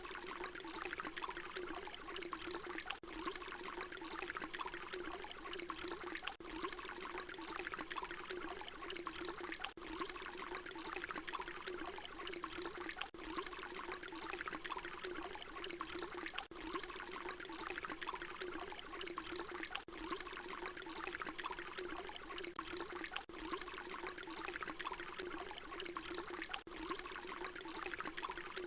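Water pouring in a steady, unbroken stream. It is a short recording looped over and over, with a brief dip at each seam about every three seconds.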